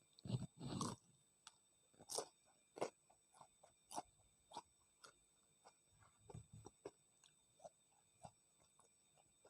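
Close-miked eating of battered fried tempeh (tempe mendoan): a loud bite and chew about half a second in, then a run of soft, irregular mouth clicks and smacks while chewing, thinning out toward the end.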